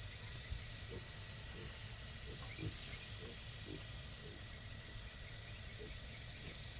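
Pigs grunting in short, irregular low grunts, about two a second, over a steady background hiss.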